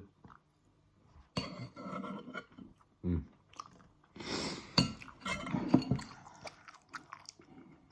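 Close-up chewing of a mouthful of couscous, tofu and vegetables, with a few sharp clinks of cutlery against the dish near the middle.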